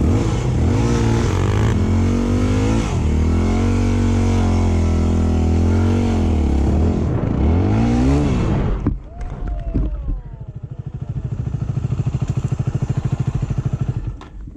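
Motorcycle engine revving, its pitch climbing and dropping through throttle changes, cuts off abruptly about nine seconds in with a brief clatter. Then an engine idles with a fast, steady throb.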